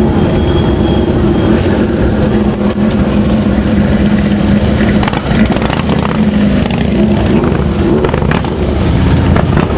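Motor vehicle engines running loud and low. One engine holds a steady note for about five seconds, then its note shifts several times.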